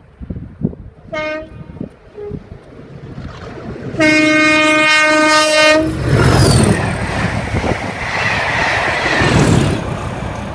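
Pair of Class 37 diesel locomotives approaching and passing: a short horn toot about a second in, then a long horn blast about four seconds in lasting nearly two seconds. The locomotives then go by loudly with their English Electric engines' turbochargers whining, the whine dropping in pitch as they pass, and the noise fades near the end.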